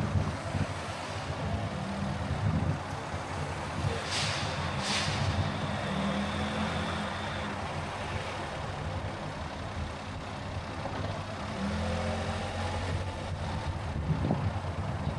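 Car engine and road noise while driving in city traffic, a steady low rumble, with two short hisses about four and five seconds in.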